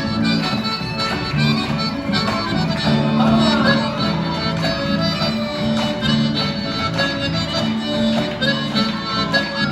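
A chacarera del monte playing, with an accordion carrying the melody over guitar accompaniment and a rhythmic bass.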